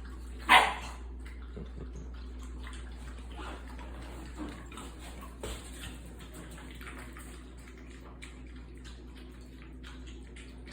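Several puppies eating together: a dense run of small wet clicks, smacks and lapping noises. One brief loud high squeak about half a second in, over a steady low hum.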